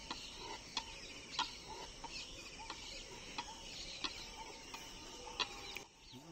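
Birds chirping and calling over a steady high twittering, with a handful of short sharp calls standing out. The sound drops off about six seconds in.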